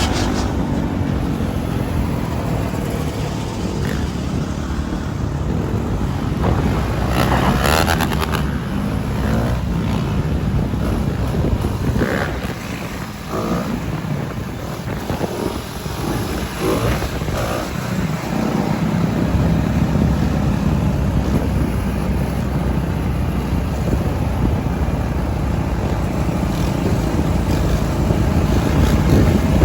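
Dirt bike engine running while it is ridden, with wind buffeting the microphone.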